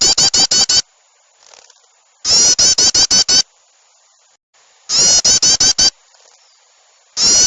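Looped bird-lure recording of small songbirds chattering agitatedly. It plays as loud bursts of about a second of rapid, high-pitched notes, roughly seven a second, repeating about every two and a half seconds.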